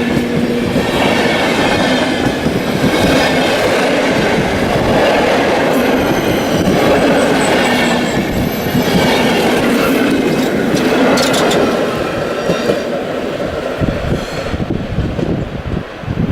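Intercity passenger train rolling past at close range: wheels clicking over the rail joints, with thin high wheel squeal in the middle. The noise eases a little near the end.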